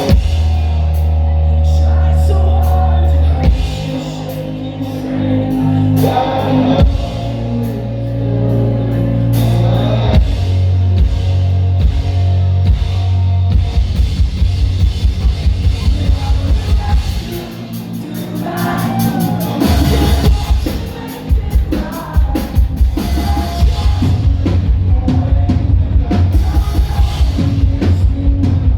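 Live rock band playing at concert volume: heavy bass and drums with singing. About halfway in, a fast pounding drum beat starts, drops out briefly, then comes back.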